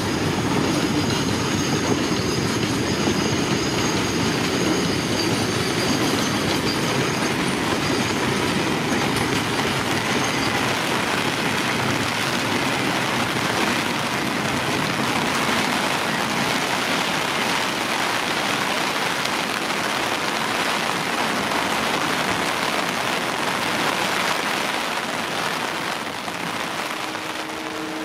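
A train rolling past on the rails, its wheels and carriages making a steady rushing clatter, with a faint high squeal in the first several seconds. The sound fades away over the last few seconds as the train recedes.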